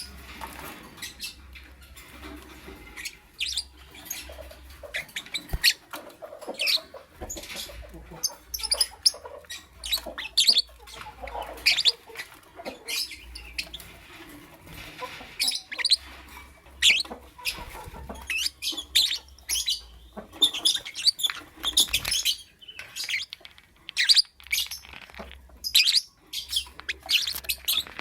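Lovebird chirping: many short, sharp high-pitched chirps in quick, irregular bursts.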